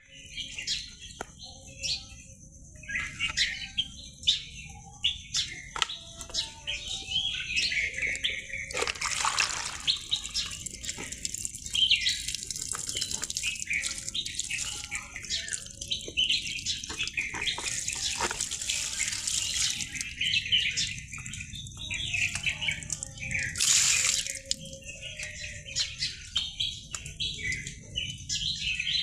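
Birds chirping and calling over one another throughout, with a few brief bursts of rushing, hissing noise.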